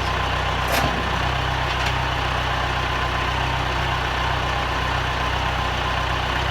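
Tractor engine idling steadily, with one brief knock about a second in.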